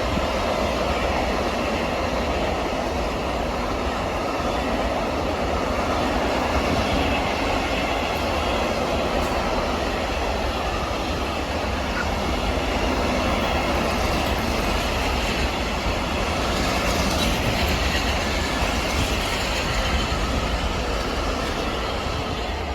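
Freight train running past, with a steady rumble of wheels on the rails that keeps up without a break.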